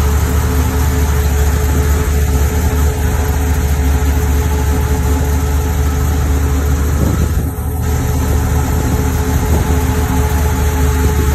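Chevrolet Monte Carlo SS's V8 idling steadily and smoothly, "running like a sewing machine".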